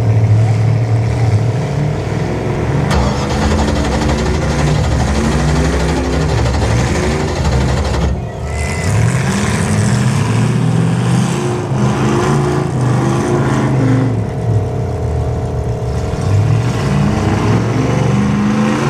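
Several demolition-derby car engines running loud and revving up and down at once, with a sharp bang about three seconds in.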